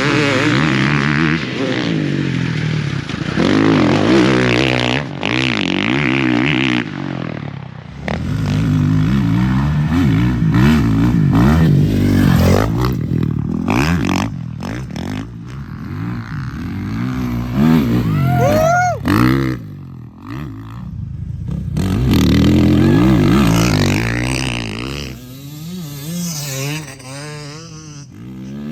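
Dirt bike engines revving hard, the pitch climbing and dropping again and again as the bikes accelerate, shift and back off, with the sound changing abruptly several times.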